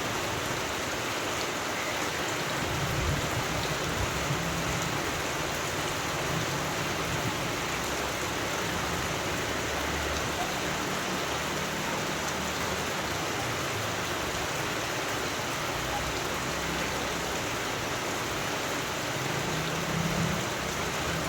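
Steady rainfall, an even hiss of drops on surfaces, with brief low rumbles about three seconds in and again near the end.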